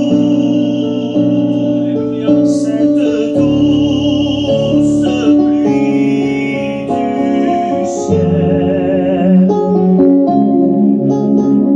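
A French worship hymn sung with vibrato over a guitar and keyboard accompaniment, the melody moving in long held notes.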